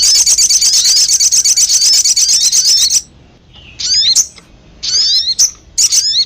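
Recorded call of a sogon, a small songbird, played as a lure: a fast, high, unbroken trill of quickly repeated sliding notes for about three seconds, then after a short pause several brief bursts of high chirps.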